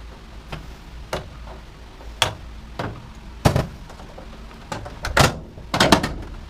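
Scattered knocks and clunks from hands and tools working on the metal parts of a washer/dryer combo being taken apart, about eight sharp hits at uneven intervals.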